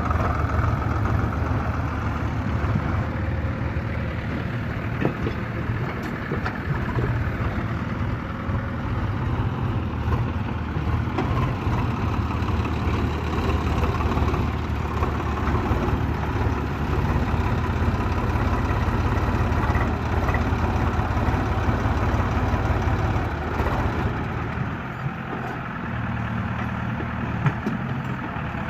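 Tractor engine running steadily with a deep low rumble.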